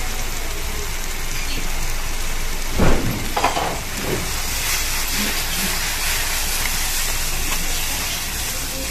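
Butter and tomato-onion masala sizzling in a hot frying pan, a steady hiss, with a few knocks about three seconds in.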